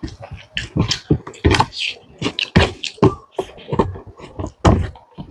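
A person chewing and smacking food with open-mouthed wet clicks, several a second in an irregular run.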